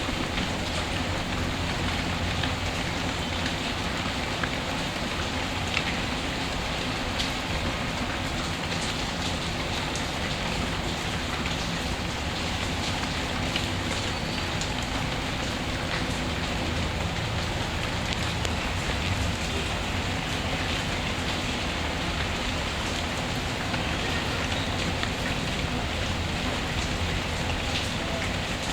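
Steady rain, an even hiss with a few scattered sharp ticks of drops.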